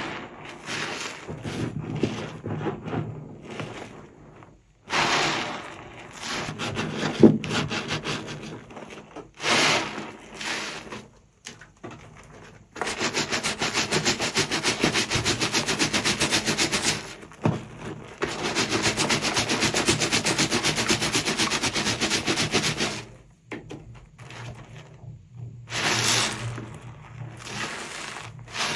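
Soapy sponge squeezed and rubbed through thick foam, with wet squishing and crackling. In the middle come two long spells of fast, even scrubbing strokes, each lasting several seconds.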